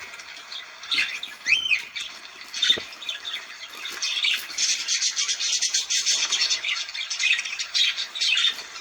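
Cockatiels squawking: a few sharp single calls in the first few seconds, then a dense run of rapid chattering calls lasting about four seconds.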